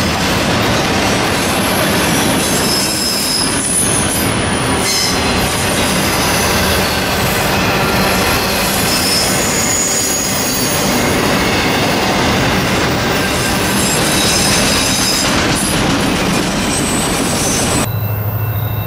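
Autorack freight cars rolling past close by: a steady rumble of steel wheels on rail with intermittent high-pitched wheel squeal. Near the end it cuts abruptly to a quieter, steady low hum.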